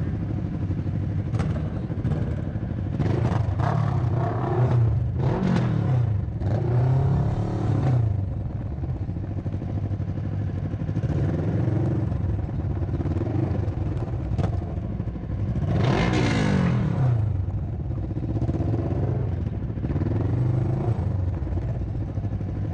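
Motorcycle engines running steadily with several revs rising and falling, the strongest about two-thirds of the way through.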